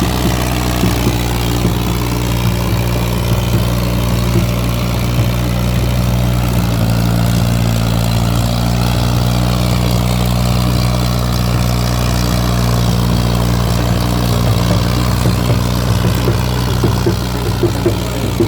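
Ghazi tractor's diesel engine running steadily at an even speed, with some clattering near the end.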